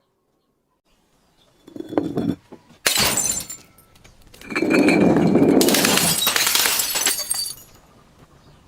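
Glass breaking and being crushed: a few crunches, a sharp shattering crack about three seconds in, then several seconds of dense crunching and crackling that fades near the end.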